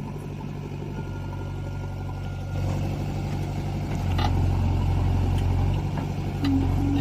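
Heavy diesel engine running steadily, growing louder about two and a half seconds in and again about four seconds in.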